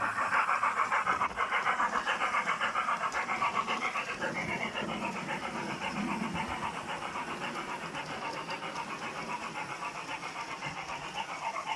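Model railway train running on the layout, giving a fast, even rhythm of about five pulses a second that eases a little after the first few seconds.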